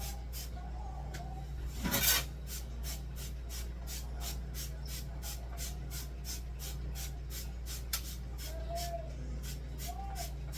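Scrubbing inside an emptied mini fridge: even rubbing strokes, about three a second, over a steady low hum, with one louder short hiss about two seconds in, like a squirt of spray cleaner.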